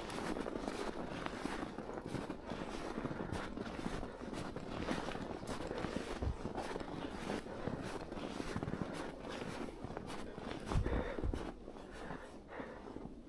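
Footsteps crunching through snow at an even walking pace of about two steps a second, quieting near the end.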